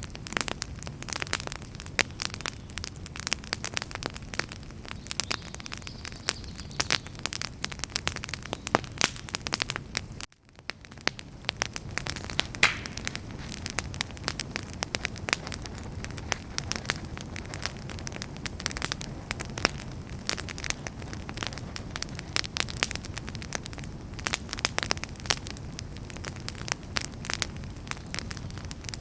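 Campfire firewood burning and crackling, with many sharp pops over a steady low rumble. About ten seconds in the sound drops out for a moment and fades back in.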